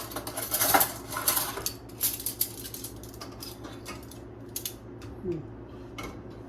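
Clattering and clinking of hard objects being handled: a busy run of knocks and clicks over the first two seconds or so, thinning to a few scattered clicks, over a steady low hum.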